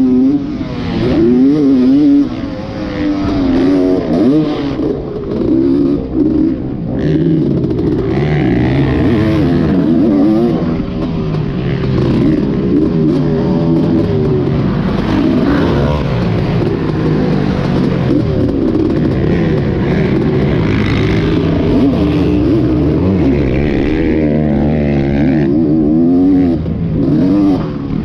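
Dirt bike engine revving up and down as it is ridden hard, pitch climbing and dropping with throttle and gear changes and briefly easing off several times.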